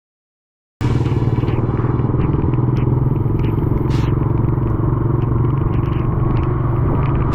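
Vehicle driving along a road: a steady, loud engine and road drone that cuts in suddenly about a second in, with scattered brief hisses and scrapes over it.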